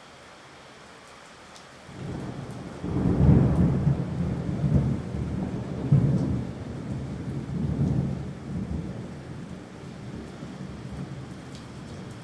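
Rolling thunder: a low rumble begins about two seconds in, swells in several peaks and slowly dies away, over a steady hiss of rain.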